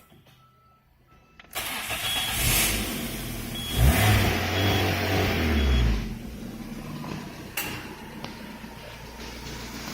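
Peugeot 206's 1.6-litre TU5JP4 four-cylinder 16-valve petrol engine being started about a second and a half in. It is revved briefly at around four seconds, then settles to a steady idle.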